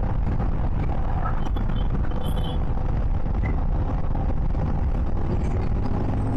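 Motorcycle cruising at a steady speed, its engine running evenly under a constant rumble of road noise, with no change in throttle.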